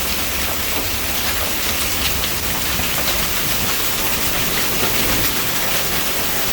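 Hailstorm with heavy rain: a steady, loud rush of rain and hail, with many small sharp ticks of hailstones striking, over a low rumble.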